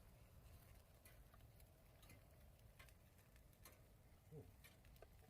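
Near silence with sparse, faint, irregular clicks and ticks.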